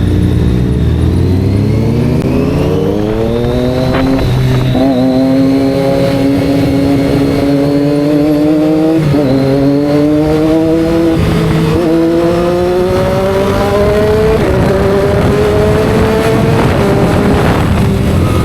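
Sport motorcycle engine under hard acceleration, running up through the gears: its pitch climbs steadily, then drops briefly at each of about five upshifts before climbing again.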